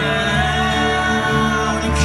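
Live band playing a country song, with guitar, at full volume.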